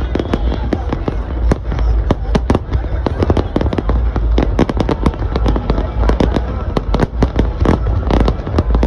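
Large aerial fireworks display: shells bursting in rapid, overlapping bangs, several a second, over a continuous deep rumble.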